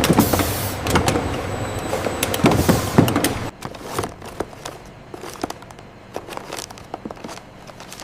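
Factory machinery running with a noisy din and rapid clattering clicks. About three and a half seconds in it drops off suddenly, leaving scattered lighter clicks and ticks.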